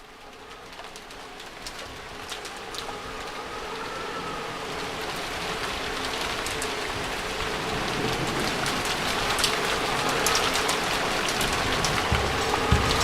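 Steady rain hiss with scattered sharp drop ticks, fading in from quiet and growing louder, with a few faint bird calls. Just before the end, low drum thumps of the song's intro come in.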